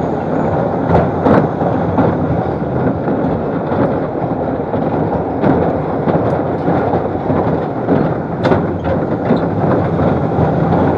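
Amusement ride car running along its rails: a steady rattle and rumble with frequent sharp clicks and knocks from the track.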